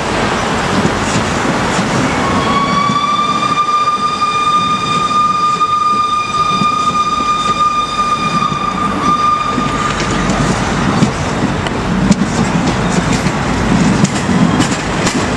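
Passenger train coaches rolling past close by, with a steady rumble of wheels on rail. From about two seconds in to about ten seconds in, a steady high-pitched tone rings over the rumble. After that, rapid clickety-clack of wheels over rail joints is heard.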